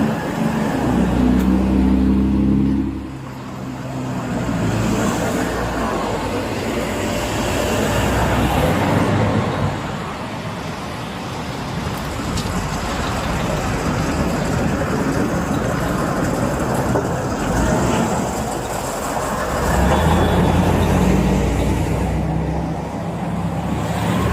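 Street traffic noise, with a motor vehicle's engine running loudly for the first few seconds and again about twenty seconds in.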